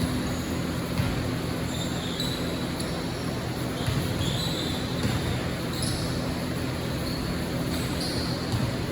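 Sounds of a basketball game on an indoor court: the ball bouncing and short high squeaks, as of sneakers on the floor, scattered over steady hall noise with a low hum.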